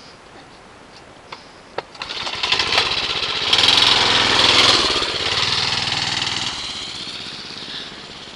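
Small dirt bike engine running, growing louder to a peak about four seconds in, then fading away as the bike rides past. Two light knocks come shortly before it.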